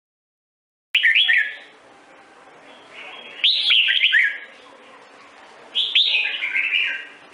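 A songbird singing short phrases of quick whistled notes, three phrases about two and a half seconds apart, starting suddenly about a second in after silence.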